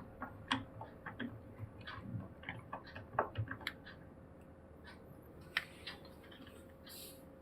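Precision screwdriver working a tiny laptop screw out, a run of light irregular clicks and ticks that thins out after about four seconds. A faint steady hum sits underneath.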